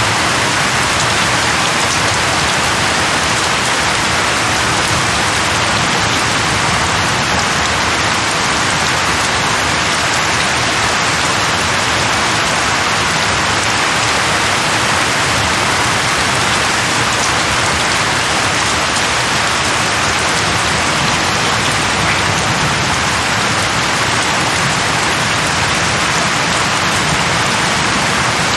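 Heavy rain falling in a steady downpour, an even hiss with no thunder or other events.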